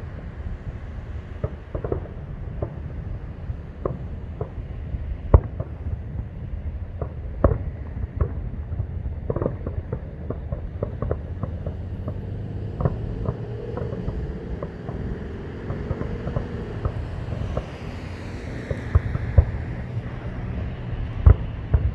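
Distant fireworks going off, with irregular bangs and pops all the way through over a low rumble and wind on the microphone.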